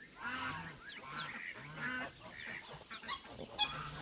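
Cayuga mother duck calling her ducklings with a run of repeated low calls, about two a second, while the ducklings peep in high, short chirps over them. Two sharp clicks sound in the last second.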